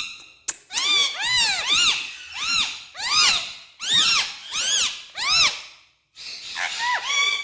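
A pet parrot making a run of short, squeaky calls, each rising then falling in pitch, about a dozen in quick succession with a brief pause about six seconds in.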